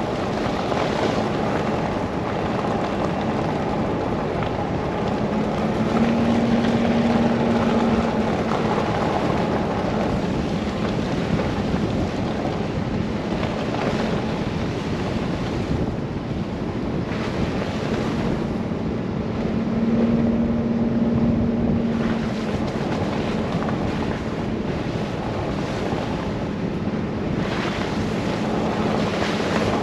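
A car driving on a snowy road in a blizzard: steady engine and tyre noise mixed with wind, with a low hum that swells twice.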